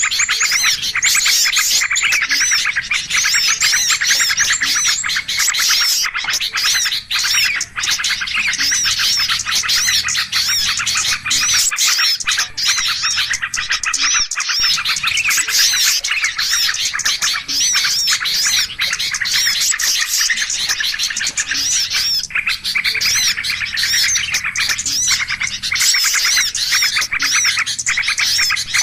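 Bird-lure recording: a dense, noisy chorus of many small songbirds chirping and calling over one another without pause, the kind of commotion played to draw small birds in.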